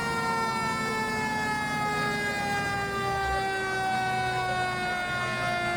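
A siren giving one long wail that falls slowly and steadily in pitch, as it winds down. A low rumble of engines runs beneath it.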